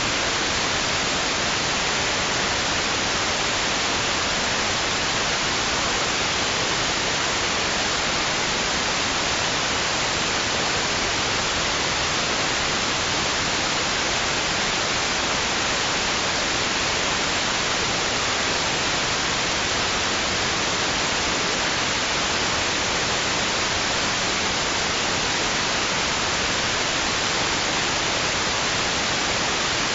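Steady white noise: an even hiss at a constant level, with no swells, surges or rhythm.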